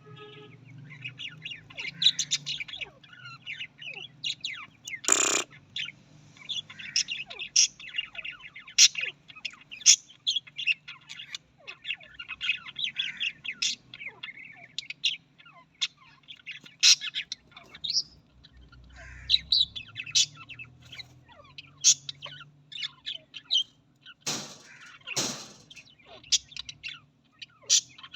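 Budgerigars chirping and chattering continuously in quick, high twittering notes, with a few louder, harsher calls about five seconds in and twice near the end.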